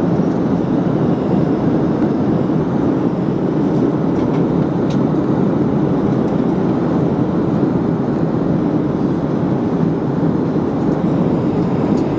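Steady noise of jet engines and rushing air heard inside a Boeing 737 airliner's cabin, a low, even sound with no change in pitch.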